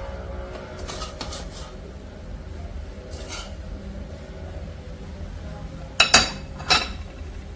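Kitchen dishes and utensils clinking: a few light clinks, then two louder sharp knocks less than a second apart near the end, over a steady low hum.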